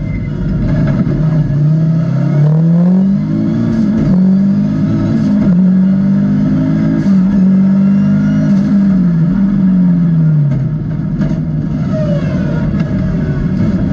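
Audi Quattro A2's turbocharged five-cylinder engine, heard from inside the cabin, pulling hard through the gears: its pitch climbs with short dips at the upshifts, holds high, then drops away about ten seconds in as the car brakes for a corner.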